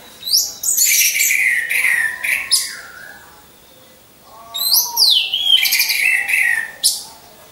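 Orange-headed thrush (anis merah) singing: two loud song phrases of rapid high notes and downward-sliding whistles, each a couple of seconds long, with a short pause between.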